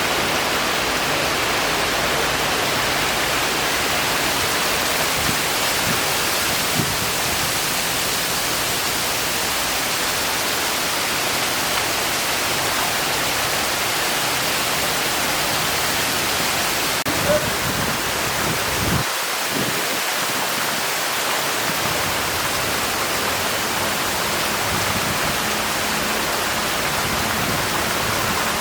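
Rain pouring down steadily in a downpour: a loud, even hiss that does not let up.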